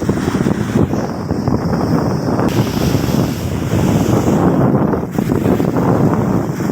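Big waves surging onto a beach, with strong wind buffeting the microphone in a continuous loud rumble.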